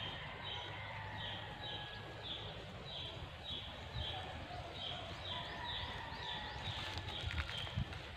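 A bird calling a short high note over and over, about two a second, with fainter calls of other birds behind it. A few knocks come near the end.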